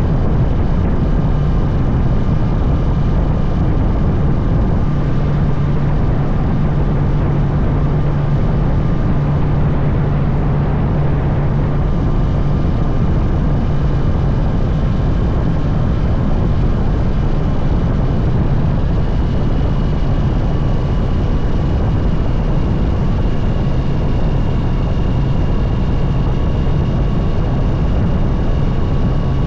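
Honda CB650R's inline-four engine running at a steady cruise, its low note holding nearly constant, under a steady rush of wind noise.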